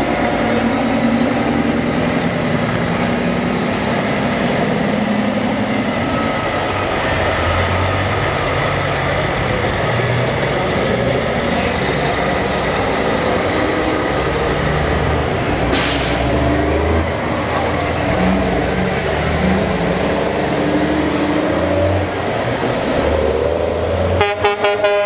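Heavy trucks' diesel engines running as they roll past in a parade, with a short sharp click about two-thirds of the way through. A truck air horn starts sounding near the end.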